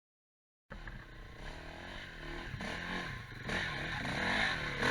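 Quad bike engines running and revving, pitch rising and falling repeatedly. The sound cuts in abruptly just under a second in and grows louder towards the end.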